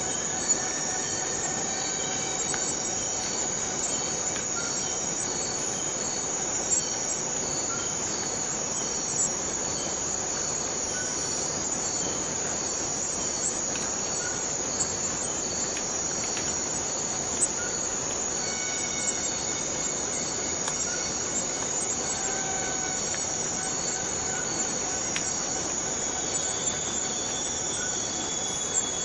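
Forest cicadas buzzing in a dense, steady, high-pitched chorus, with a few brief ticks and short faint chirps scattered through it.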